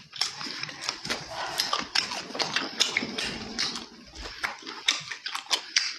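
A person chewing food with the mouth close to the microphone, with many quick wet smacking clicks.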